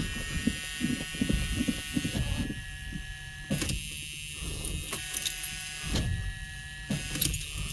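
1979 Ford Thunderbird's V8 being cranked over on the starter without catching, with a couple of short lulls. It is getting no fuel, which the owner blames on a failed fuel tank sending unit.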